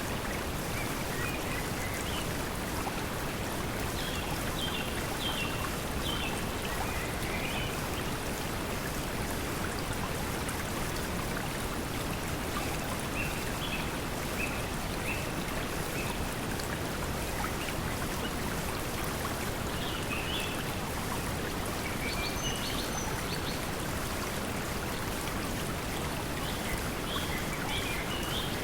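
Steady pink noise mixed with flowing water, with short bird chirps every few seconds.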